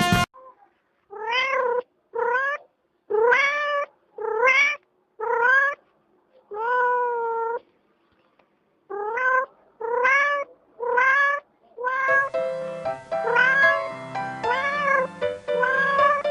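Domestic cat meowing over and over, about a dozen short meows that each rise and then fall in pitch, with a pause of a second or two about halfway. From about twelve seconds in, music with piano plays under the meows.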